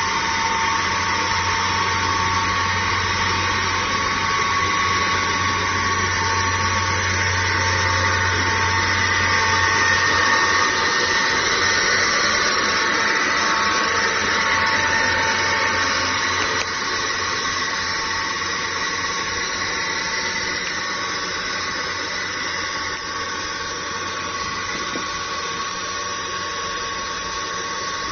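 Suction pump on an electric sewage suction truck running steadily: a constant high whine over a rushing hiss, with a low hum underneath that fades out about halfway through.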